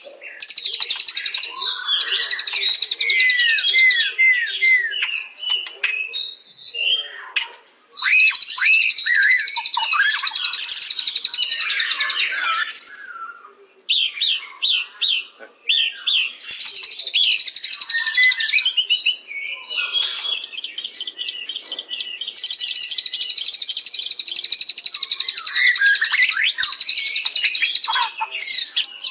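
White-rumped shama (murai batu) singing: long runs of very fast trills mixed with slurred, swooping whistled notes, broken by short pauses about a quarter and about halfway through.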